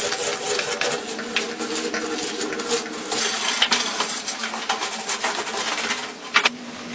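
Rapid clicking and clattering of hard objects knocking together, with one sharp knock near the end.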